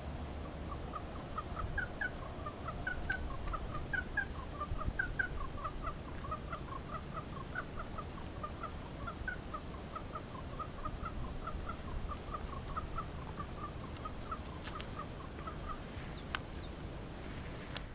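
A bird calling a long series of short, rapid notes, about four a second, that rise and fall a little in pitch over a low steady background rumble. A sharp click sounds just before the end.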